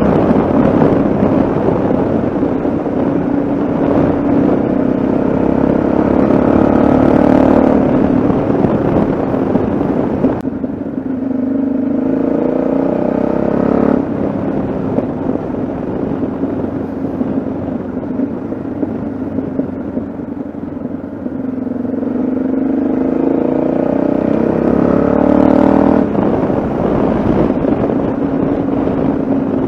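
Yamaha XT660Z Ténéré's single-cylinder four-stroke engine running under way on the road. The engine note shifts suddenly about ten and a half, fourteen and twenty-six seconds in, and climbs between about twenty and twenty-six seconds.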